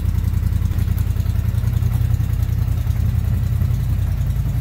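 Polaris Sportsman 850 ATV's parallel-twin engine running steadily with a fast, even low rumble, shortly after a cold start.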